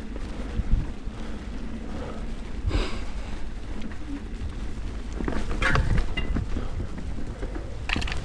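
Mountain bike ridden along a forest trail: a steady rumble of tyres and wind on the camera microphone, with sharp rattles from the bike over bumps about three seconds in, near six seconds and near eight seconds.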